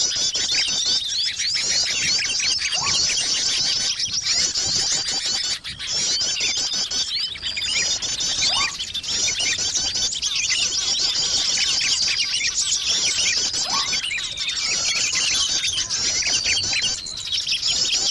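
Dense, unbroken twittering and chirping of many small songbirds: a bird-lure (pikat) call track for drawing small birds in. A short, lower rising note recurs about every six seconds.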